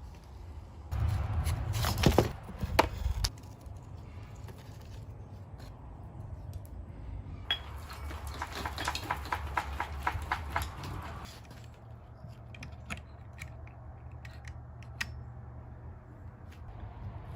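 Tools and parts being handled on a workbench during repair of an old Stihl string trimmer. There are scattered clicks and knocks, a loud clattering stretch about a second in, and a rapid, regular run of clicks from about seven to eleven seconds, over a low steady hum.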